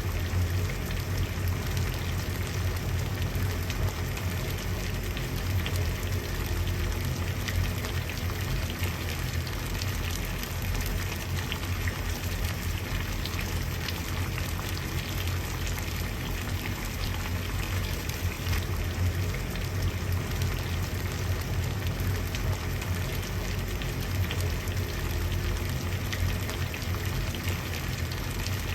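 Water at a steady boil, a dense, even bubbling and popping over a low rumble.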